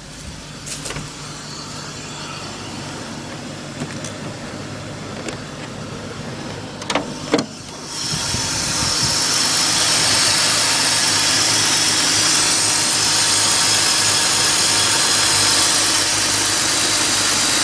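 BMW E39 528i inline-six idling rough on a cold start, the rough idle and shaking that the owner suspects comes from the ignition coils or the VANOS. About seven seconds in there are two sharp clunks, as from the hood being opened. From about eight seconds the engine is louder, with a strong hiss over it.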